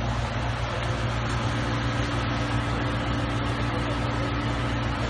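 A car engine idling steadily, a constant low hum with no change in speed.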